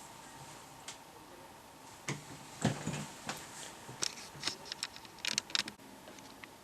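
Irregular clicks, taps and light rattles of small objects being handled, with a quick run of them about four to five and a half seconds in, over a faint steady high-pitched tone.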